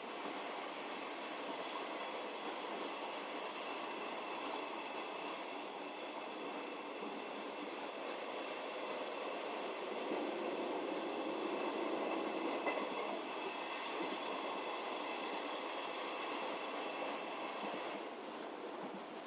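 Passenger car of a JR 711 series electric train running along the line: a steady rumble of wheels on rails with a high steady whine on top that cuts off near the end.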